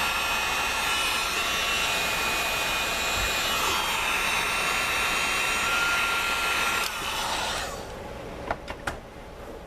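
Heat gun blowing steadily with a whining fan, switched off about seven seconds in and winding down, followed by a couple of small clicks near the end.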